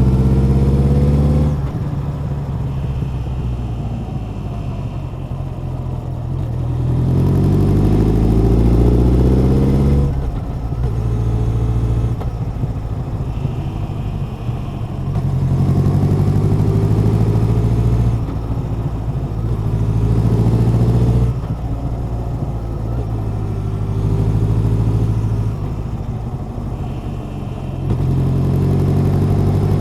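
Honda CB1100's air-cooled inline-four engine and exhaust while riding, accelerating several times with the pitch rising, then backing off the throttle to quieter running in between.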